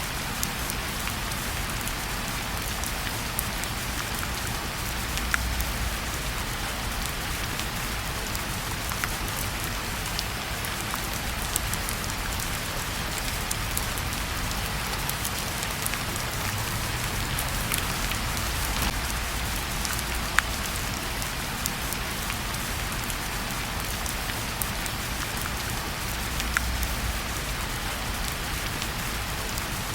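Steady rain falling, with a fireplace crackling: scattered sharp pops every second or two.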